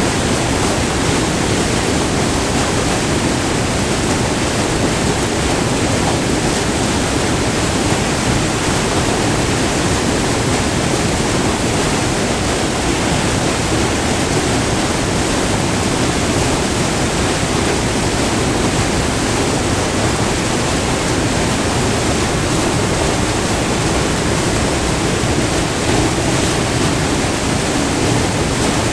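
Short, multi-tiered river waterfall: white water pouring and splashing over the rocks in a loud, steady, even rush heard up close.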